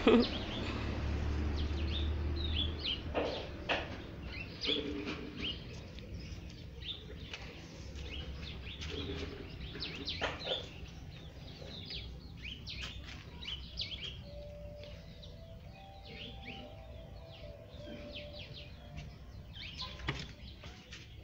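Small birds chirping again and again in short, high calls, with a low rumble in the first few seconds and a few brief rustles or knocks.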